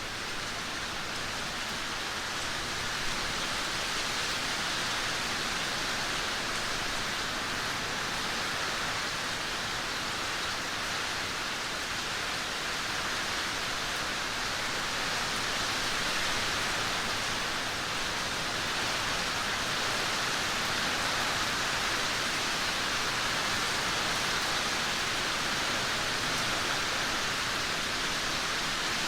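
Heavy rain pouring down in a steady, even hiss, with no thunder heard.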